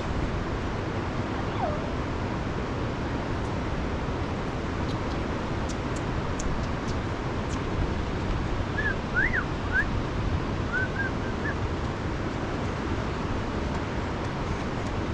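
Steady rushing noise of a river in flood. A few short high chirps come about nine to eleven seconds in.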